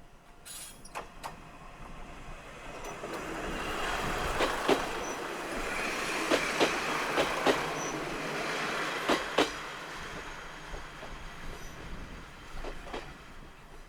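Diesel railcar running past, its wheels clicking over rail joints in pairs. The running noise swells through the middle and then fades.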